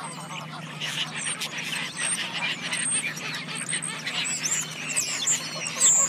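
A dense chatter of animal calls: many short high chirps and squeaks with scattered clicks, over a low steady hum.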